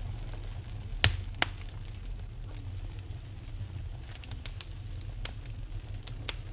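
Wood fire burning in a fireplace, crackling with sharp pops and snaps over a low steady rumble; two loud pops come about a second in, and smaller snaps follow throughout.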